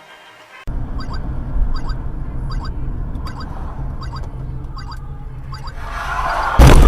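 Car cabin road and engine rumble with a turn signal ticking steadily, then a loud crash impact near the end as the car collides.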